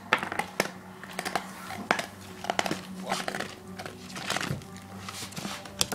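Rabbit gnawing on a dog chew bone: irregular sharp crunches and clicks of teeth on the bone, over a low steady hum.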